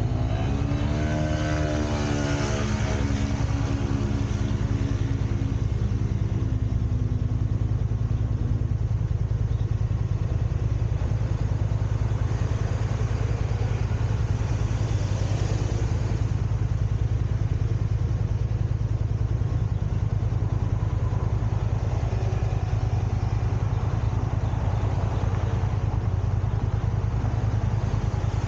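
Car driving on the road: a steady low drone of engine and road noise. Over the first couple of seconds an engine note drops in pitch, then holds steady and fades out about nine seconds in.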